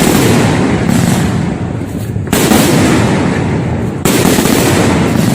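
Fireworks display going off densely: a continuous barrage of booms and crackling. Fresh loud volleys start sharply about two seconds in and again about four seconds in.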